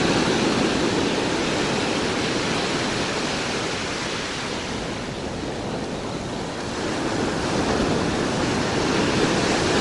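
Ocean surf washing onto a sandy beach, a steady rush that eases a little about halfway through and swells again.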